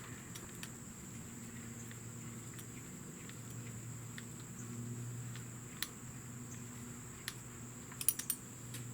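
Quiet garage room tone: a steady low hum and a steady high-pitched whine, with a few faint clicks, a small cluster of them near the end.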